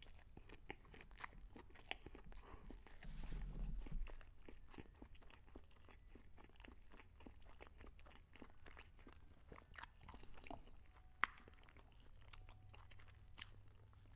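Close-miked chewing of a bite of a McDonald's crispy fried chicken sandwich: faint, irregular soft crunches and wet mouth clicks. There is a louder low sound about three seconds in and a single sharp click near the end.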